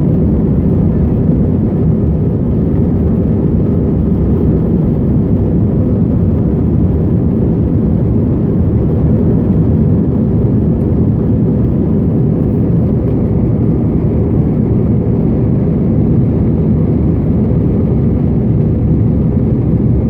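Airbus A321 jetliner at takeoff thrust, heard from inside the cabin: a loud, steady low rumble of engine and airflow noise that holds even throughout.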